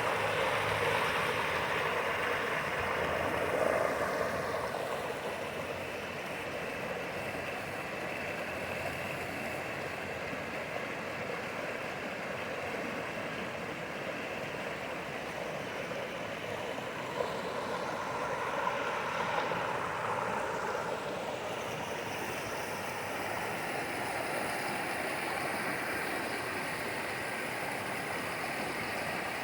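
Creek water flowing steadily, an even rushing.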